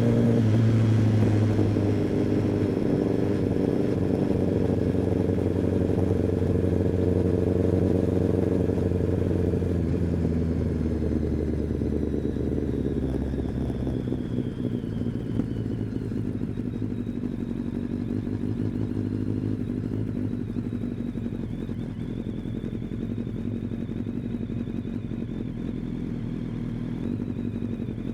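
Kawasaki ZX-10R inline-four engine and exhaust running at a steady pitch, easing off after about ten seconds and settling lower and quieter.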